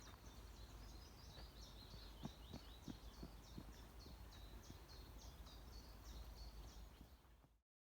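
A small songbird singing faintly: a long run of quick, high chirping notes repeated over and over, with a few soft low knocks underneath. The sound cuts off abruptly near the end.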